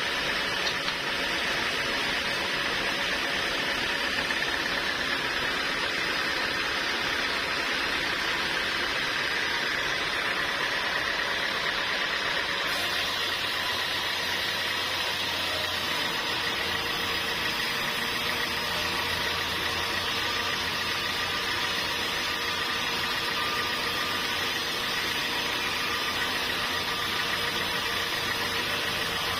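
Sawmill machinery running steadily, an engine-like hum mixed with noise, with a slight change in tone about thirteen seconds in.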